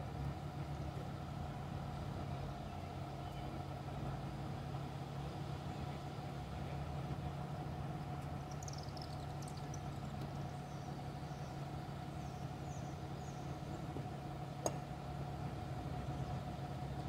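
Steady hum of an idling vehicle engine. A few short high chirps come around the middle, and there is a single sharp click near the end.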